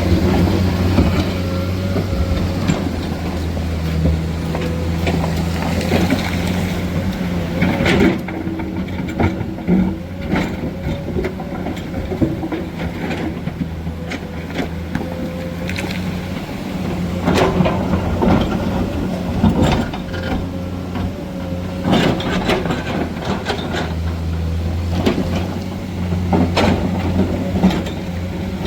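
Hydraulic excavator's diesel engine running steadily under load while it clears debris, with several sharp clanks and knocks scattered through as it works.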